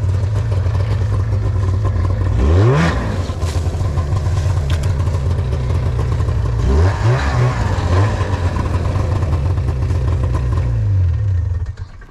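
Snowmobile engine running just after a fuel-line repair, revved up twice, then slowing and shut off near the end.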